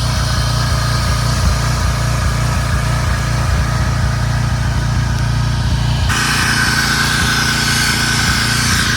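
Small petrol engine running steadily at an even speed. About six seconds in, a high hiss with a whistling whine joins it.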